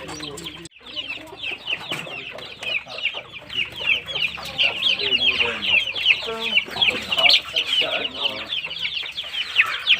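A brood of chicks peeping continuously, many short, high, downward peeps overlapping, with some lower clucking calls mixed in through the middle. The sound drops out briefly just under a second in.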